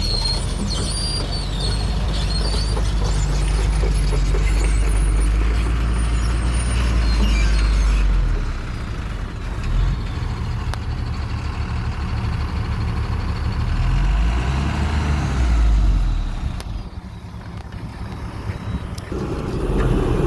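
XCMG 140 excavator's Cummins diesel engine working, its note rising and falling with load. It drops back briefly about eight seconds in and again near the end, then picks up again.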